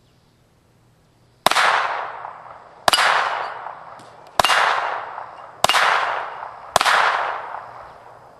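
Five single gunshots fired at a steady pace, about one every second and a quarter, each followed by a long echo that fades away.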